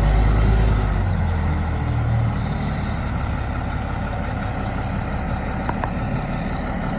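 Diesel engine of a Cat D400E articulated dump truck running, with a strong low drone for the first two seconds or so that then eases to a steadier, quieter run.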